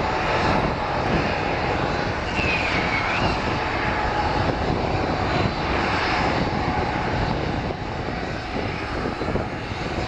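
Jet airliner engines running, loud and steady.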